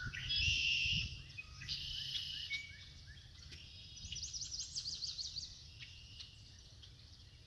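Several birds calling and singing at once, with overlapping high chirps and whistles. A loud call comes in the first second, and a rapid trill of up-and-down notes follows about four seconds in.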